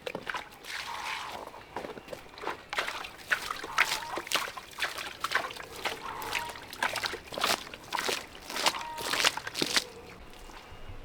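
Repeated wet splashing and sloshing in water and mud, a short splash about twice a second, stopping shortly before the end.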